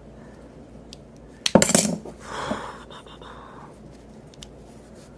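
Small metal knife parts clinking and rattling against a hard surface: a quick, loud burst of clicks about a second and a half in, followed by softer handling and scraping.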